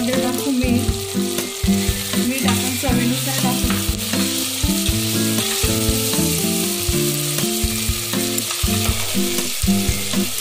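Chopped vegetables sizzling as they fry in hot oil in an aluminium pressure cooker pot, stirred with a spatula. A low, shifting hum of tones runs underneath the sizzle.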